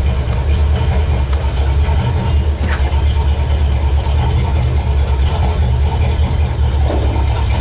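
Classic Ford car engine idling with a steady, loud low rumble, with one brief click about two and a half seconds in.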